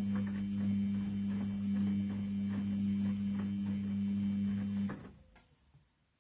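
Washing machine running a wash, its motor turning the drum with a steady hum and light rhythmic ticking, then the motor stops about five seconds in and the sound dies away to near silence.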